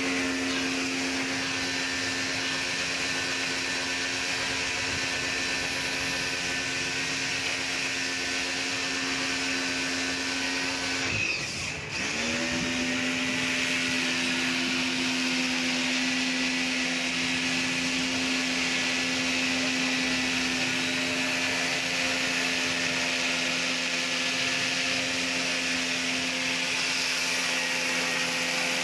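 A motor-driven machine running steadily with a constant hum and a hiss. About eleven seconds in it cuts out briefly, then spins back up to the same speed within a second.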